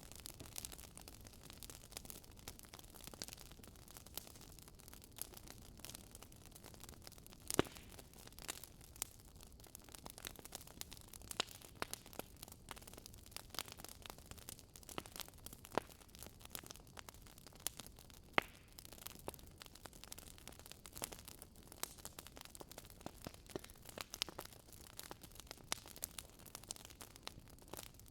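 Wood fire crackling, with irregular small pops and snaps over a faint hiss and a few sharper pops standing out, the loudest about eight seconds in.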